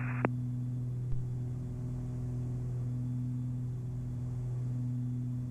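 Steady low drone of the Beechcraft Baron B55's twin piston engines and propellers in cruise, with a short click just after the start as the radio transmission cuts off.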